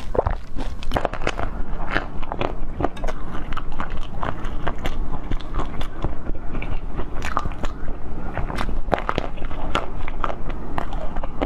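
Close-miked eating: bites and crunchy chewing, dense with sharp crackles throughout.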